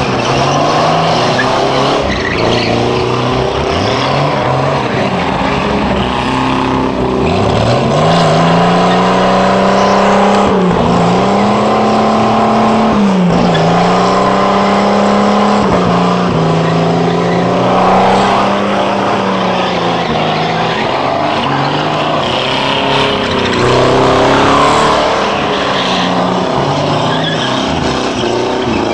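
Car engines revving hard as the cars spin donuts with their tyres skidding and smoking. One engine climbs steeply and is held at high revs for several seconds, dipping briefly twice.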